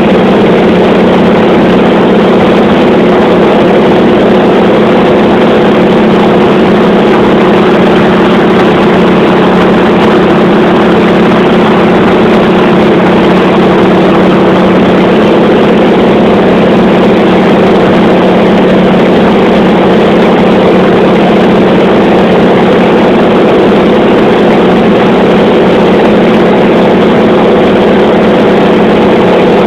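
Radial piston aircraft engine running steadily in cruise flight: a constant, loud, even drone with no change in pitch.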